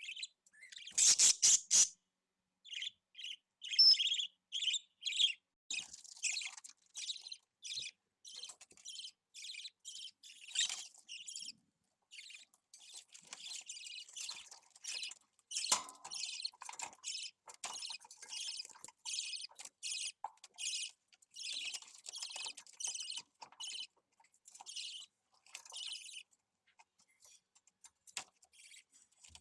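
Budgerigar chicks chirping: a long run of short, raspy high calls repeated in quick succession, with a louder burst about a second in.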